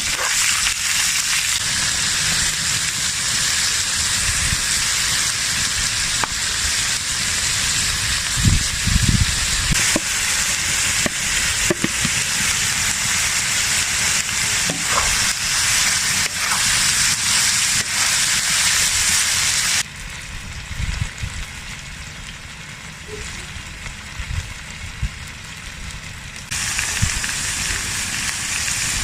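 Offal frying in hot fat, a steady sizzle with scattered crackles and a few low knocks. About twenty seconds in the sizzle drops much quieter for several seconds, then comes back at full level.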